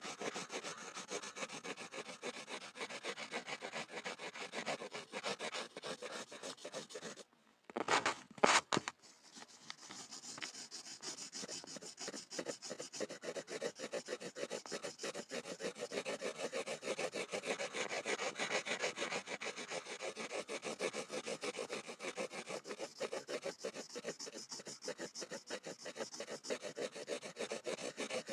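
Pencil scribbling on a board, a continuous fast scratching of many quick back-and-forth strokes. About seven seconds in it stops briefly, then a short louder burst of noise comes before the scribbling resumes.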